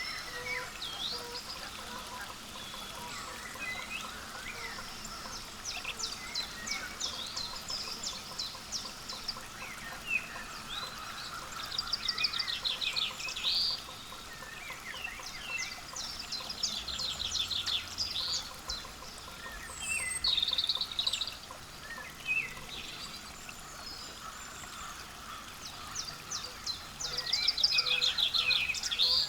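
Wild birds calling. Several runs of rapid, high-pitched chattering notes, each a second or two long, sound among scattered chirps, with waterfowl calling lower down.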